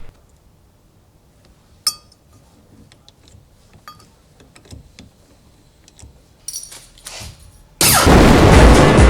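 A sharp metallic clink that rings briefly, then a few faint clicks and taps in a quiet room. Loud electronic music cuts in suddenly near the end.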